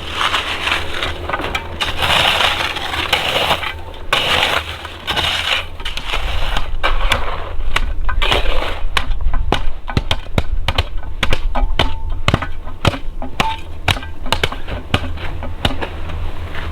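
Crunching and rustling, then a dense run of sharp snaps and clicks through the second half.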